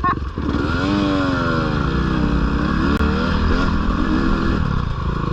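Dirt bike engine running under load, its revs rising and falling twice and then holding steadier, as the bike works through slippery mud.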